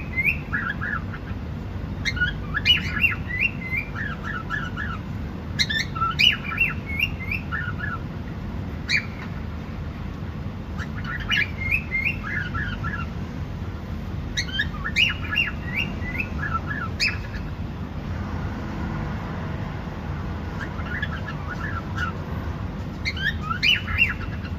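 Cockatiel chirping and squawking in short bursts of quick hooked notes, a burst every two to three seconds, over a steady low background hum.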